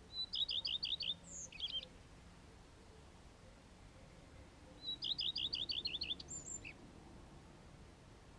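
A songbird singing: two phrases, about five seconds apart, each a rapid run of repeated high notes followed by a higher note.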